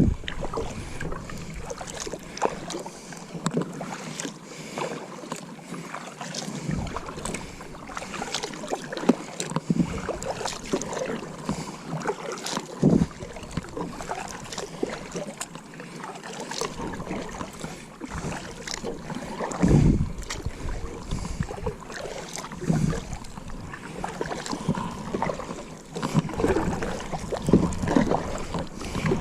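Small knocks and splashes around a plastic Pelican kayak sitting on the water, scattered irregularly over a steady wash of water and light wind noise on the microphone.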